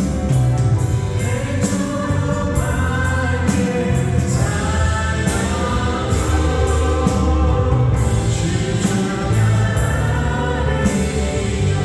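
Christian worship song: voices singing together over a band, with a steady bass and regular cymbal strokes.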